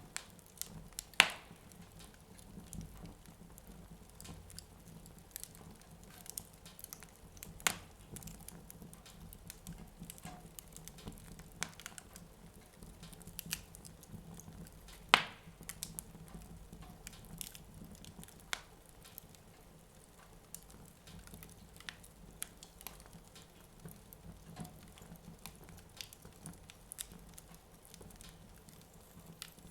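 Wood fire burning in a fireplace, crackling with many small, irregular clicks. Three sharper pops stand out: about a second in, near eight seconds, and about halfway through.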